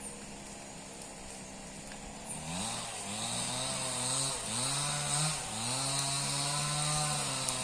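Chainsaw cutting thick branches: quieter at first, then from about two and a half seconds in its engine revs up and eases off several times as it works through the wood.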